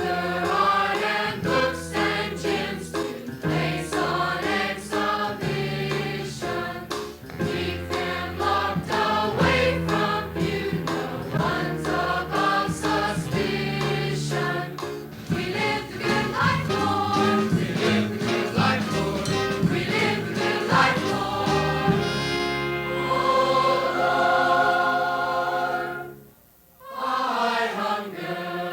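A choir singing with band accompaniment over a steady beat and moving bass line. Near the end the voices hold a long chord, then the music breaks off for a moment and starts again.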